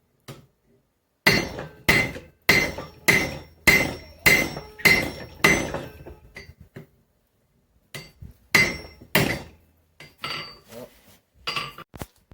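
Blacksmith's hand hammer striking hot steel over the anvil horn while drawing out the neck of an axe head: a steady run of about eight ringing blows, a little under two a second, then a pause, two more heavy blows and a few lighter taps near the end.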